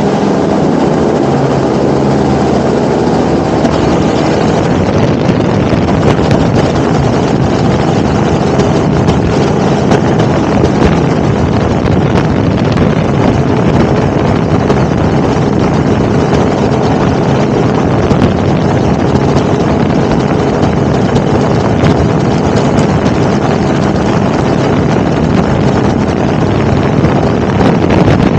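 Helicopter in flight: a loud, steady rush of engine and rotor noise, with wind buffeting the microphone.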